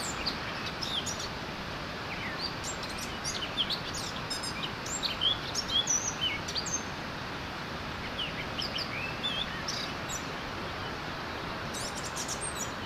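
Songbirds chirping and singing, with many short, quick notes scattered throughout and thickest in the middle. Under them runs a steady background hiss.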